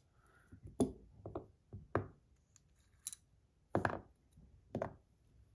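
Irregular sharp clicks and knocks as thick fidget buttons are handled and fitted onto a titanium fidget spinner, about seven hits at uneven spacing, the loudest about a second in and near four seconds in.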